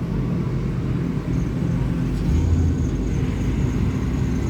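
Truck engine running with a steady low rumble, briefly louder about two and a half seconds in.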